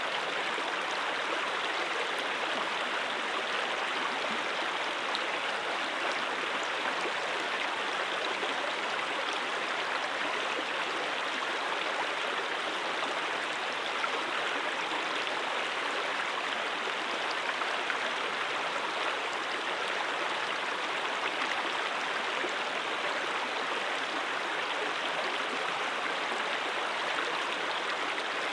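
Mountain stream flowing steadily, a continuous even rush of water with no breaks or changes.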